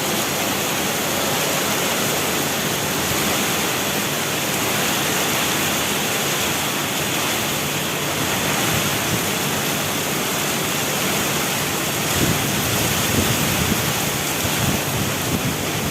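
Heavy rain in a storm falling as a steady, dense hiss. From about twelve seconds in, gusts of wind buffet the microphone in uneven low rumbles.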